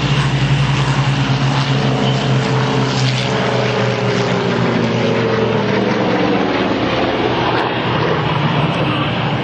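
Piston-engined propeller aircraft running close by: a steady engine drone whose note slides slowly lower through the middle.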